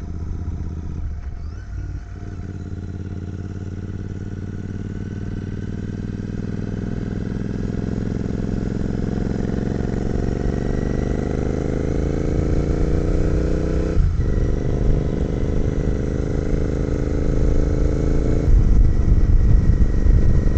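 Royal Enfield 650 parallel-twin motorcycle engine pulling under way, its pitch climbing steadily as the bike gathers speed. It dips briefly at gear changes about two seconds in and about fourteen seconds in, and grows louder and rougher near the end.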